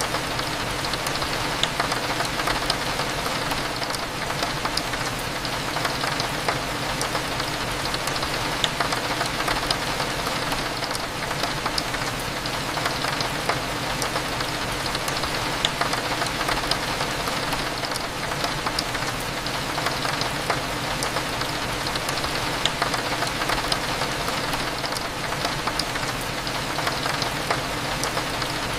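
Steady rain falling against a window over a low, even café hum, with scattered small ticks and clinks throughout.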